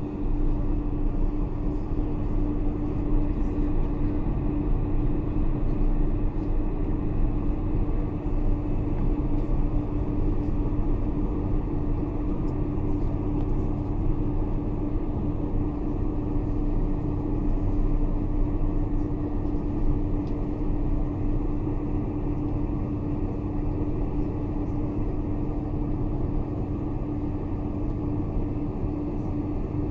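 Steady cabin noise inside a Boeing 747-400 on the ground before takeoff: a low rumble of the running engines and air systems with a constant hum.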